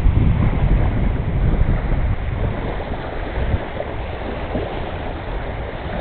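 Strong wind buffeting the microphone with a low, fluctuating rumble, along with waves on the reservoir. The gusts are heaviest near the start and ease off a little.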